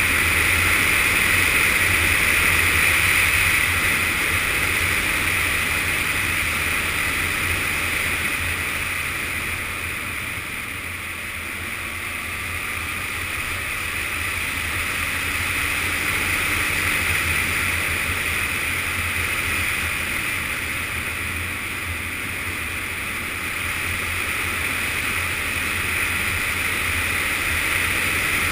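Yamaha FZS600 Fazer's inline-four engine running under way, mixed with steady wind rush over the camera. It eases off a little about ten seconds in and again past twenty seconds, then picks back up.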